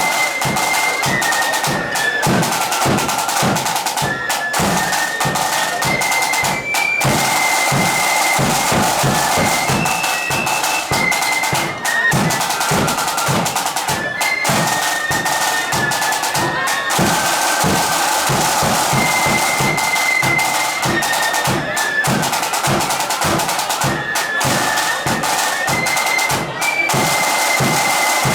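Marching flute band playing live: massed flutes carry a high melody over snare drums and a bass drum beating a steady march rhythm, in a reverberant hall.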